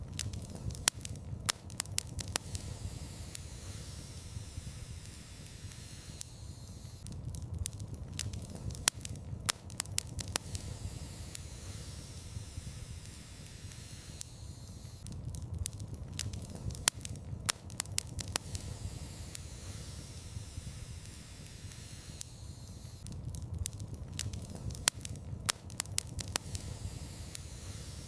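Wood fire burning in a fireplace: a steady low rumble of flames with clusters of sharp crackles and pops, the same bursts coming back about every eight seconds.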